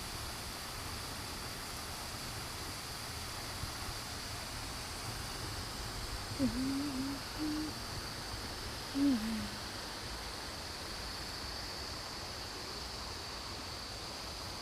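A few low hooting calls in two short groups around the middle, over a steady background hiss.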